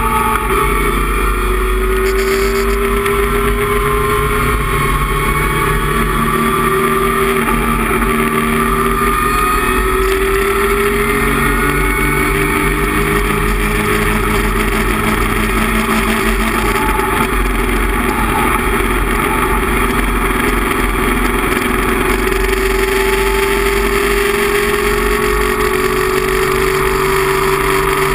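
Datsun 260Z race car's 2.6-litre straight-six engine running hard, heard from inside the cabin, with steady road and wind noise underneath. Its pitch climbs slowly over about the first dozen seconds and climbs again in the last few seconds.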